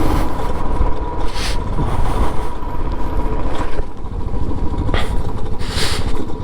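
Motorcycle riding over a rough, stony unpaved road: a steady engine and wind-and-road rumble, with a few brief louder clatters from the bumps.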